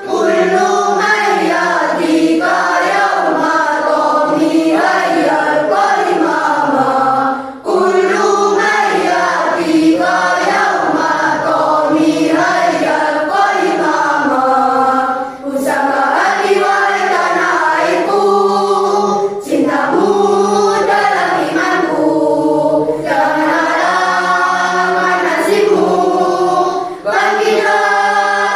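Children's choir singing, with a few short breaks between phrases.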